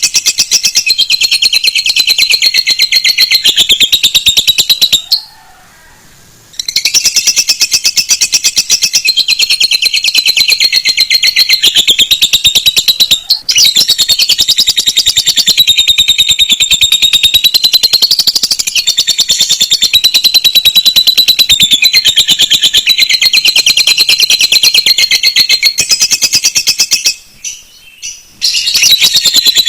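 Cage bird singing a long, loud, very rapid high trill, a continuous chatter that breaks off briefly twice.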